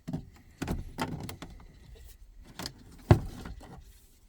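A string of knocks and rattles as interior parts are pulled from a pickup truck's cab, about six in all, with the loudest, a sharp knock, about three seconds in.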